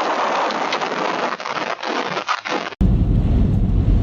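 Strong gusting wind with irregular knocks and clatter. Nearly three seconds in it cuts abruptly to a louder, deep rumble of wind buffeting the microphone.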